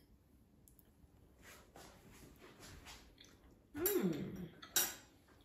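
A person chewing a mouthful of soft poached egg, faint and soft. About four seconds in comes a hummed "mmm" of enjoyment that rises and then falls in pitch, followed by a short sharp click.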